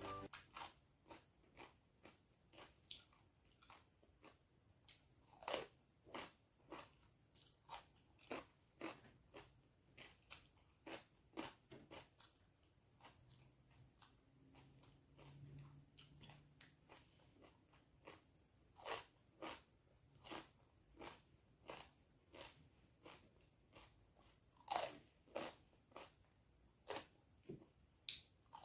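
Close-miked mukbang eating of adobong paksiw na galunggong: chewing with sharp, wet mouth clicks and smacks, about two a second, a few louder than the rest.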